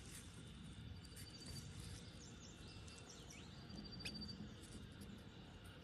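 Quiet countryside ambience with a few faint, high chirps and thin whistles scattered through it.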